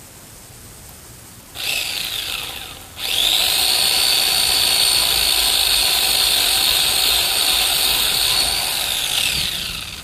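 Electric chainsaw triggered in a short burst that winds straight down, then run again at a steady high whine for about five seconds before being released, the pitch falling as the motor and chain coast to a stop near the end.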